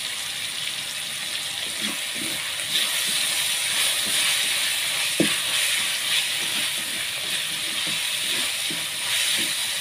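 Sliced bitter melon stir-frying in a pan: a steady sizzle, with a few light knocks scattered through it.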